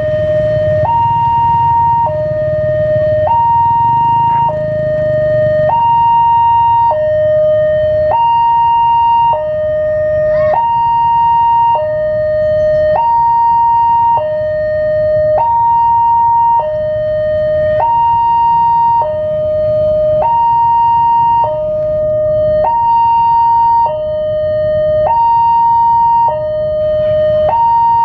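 Railway level-crossing warning siren sounding a steady two-tone hi-lo alarm, switching between a high and a low note about every 1.2 s: the signal that the crossing is closing for an approaching train. A low rumble runs underneath, strongest in the first few seconds.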